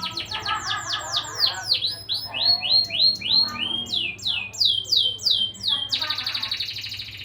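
Canary singing a long rolling song. It runs through a string of rapid trills, each a fast run of repeated falling notes, changing speed and pitch every second or so, with a denser, faster trill near the end.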